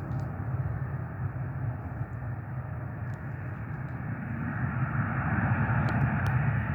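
Airliner engines running, a steady rumble with a rushing hiss that grows louder about two-thirds of the way through.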